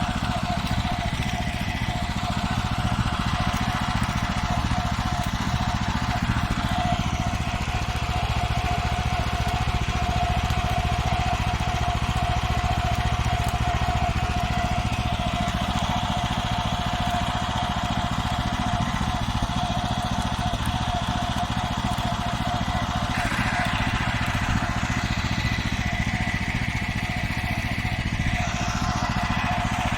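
Farmer 1511 walk-behind tractor engine running steadily under way, with a constant whine over the engine beat.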